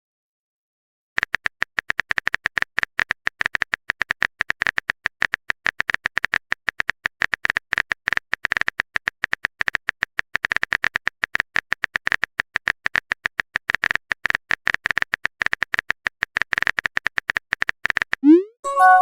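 Typing sound effect: rapid, irregular keyboard-like clicks with a bright, high edge, starting about a second in. Near the end it stops and a short rising swoosh is followed by a few-note chime, like a message being sent or received.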